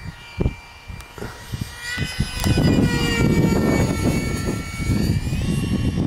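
Whine of an RC jet's 64 mm electric ducted fan in flight, its pitch gliding as the plane moves and rising about five and a half seconds in. Wind buffets the microphone throughout, in thumps at first and then as a heavy rumble from about halfway.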